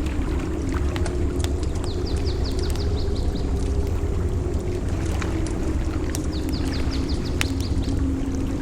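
Campfire crackling with sharp pops over a steady low rumble of surf. A bird gives two quick trills of about ten high chirps each, about two seconds in and again near six and a half seconds.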